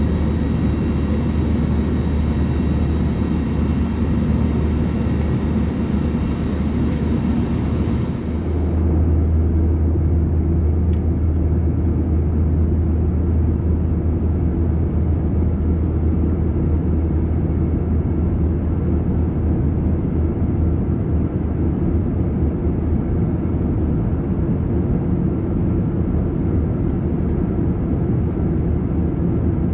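Airbus A321 cabin noise in flight: a steady drone of engines and airflow with a strong low hum. The higher hiss drops away about eight seconds in.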